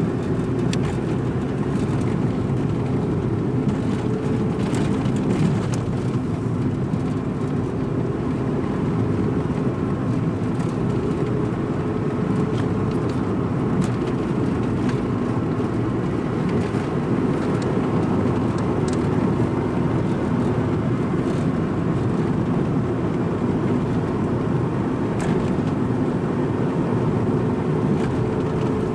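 Strong coastal wind buffeting the microphone: a loud, steady, low rumble that does not let up.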